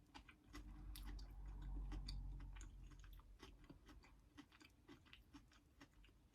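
Close-miked, quiet chewing of crispy fried mac and cheese bites: soft, irregular wet clicks and small crunches. A low rumble sits under the chewing from about half a second to three seconds in.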